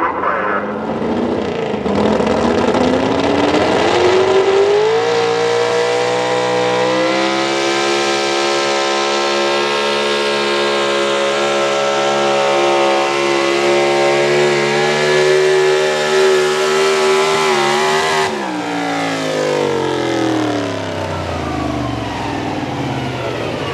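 Ford Super Duty pro stock 4x4 pulling truck's engine revving up over the first few seconds and held at high revs through the pull. About eighteen seconds in, the pitch drops sharply and winds down as the engine is cut, which the announcer puts down to the sled's kill switch shutting the truck off.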